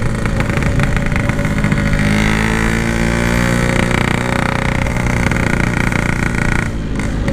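Yamaha RX-King's two-stroke single-cylinder engine running under way through a Packing Power aftermarket exhaust, its pitch bending slowly up and down with the throttle. The sound dips briefly near the end.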